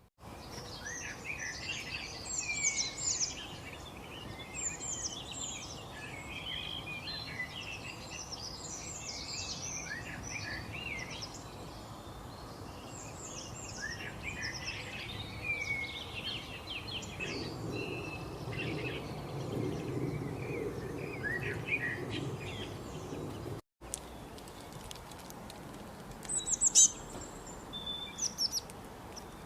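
Many small birds chirping and singing together in quick overlapping notes over a steady background hiss. About three-quarters of the way through, the sound cuts out briefly, then a few louder, separate chirps follow.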